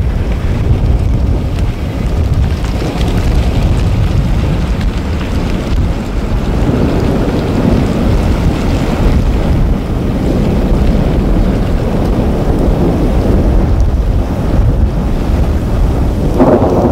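Thunderstorm noise: a loud, continuous low rumble with no clear pitch, swelling around the middle, with a brighter burst near the end.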